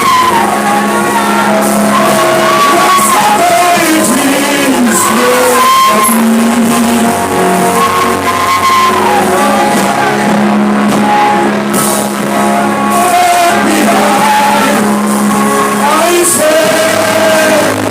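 Church worship music: voices singing over sustained instrumental chords, with long held and sliding notes.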